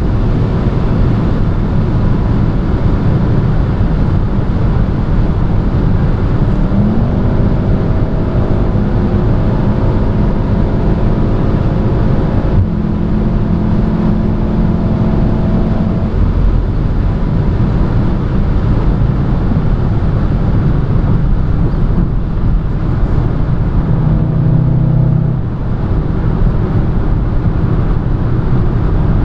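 Inside a turbocharged four-cylinder hatchback at high autobahn speed: constant wind and tyre roar, with the engine note climbing slowly under acceleration for several seconds before fading back into the road noise, and a brief second engine note near the end.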